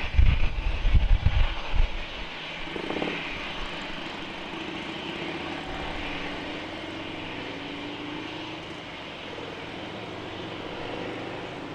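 Jet airliner engines: a steady rush with a slowly falling tone underneath, after a low, uneven rumble in the first two seconds.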